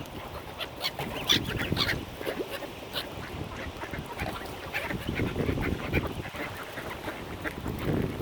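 Mallard ducks quacking in short, scattered calls, several in quick succession.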